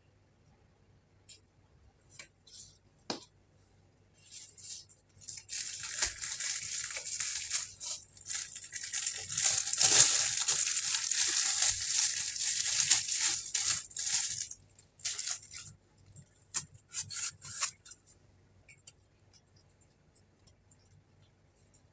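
Scattered clicks, then about ten seconds of dense rustling and crackling in the middle, then more scattered clicks.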